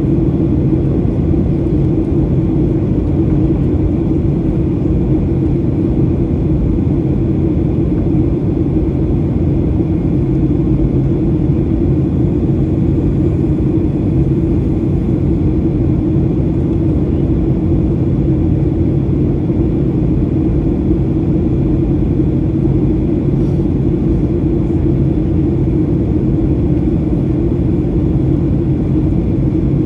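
Steady cabin noise inside a Boeing 737-800 in flight: the CFM56-7B turbofans and the airflow over the fuselage make a loud, even rumble with a low steady hum that does not change.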